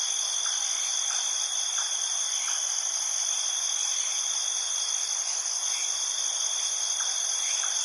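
Steady chorus of night insects, crickets, trilling unbroken at several high pitches at once.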